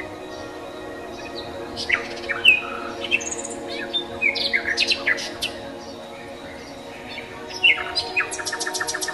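Birds chirping in short, quick calls, some sweeping down in pitch, over a steady drone. Near the end comes a rapid trill of about eight notes a second.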